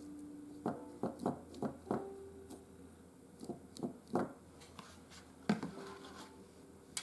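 Light, scattered taps, clicks and scratches of hands at work with painting tools and the bark pieces: about a dozen small knocks, irregularly spaced, the sort made while brushing a wash onto the bark.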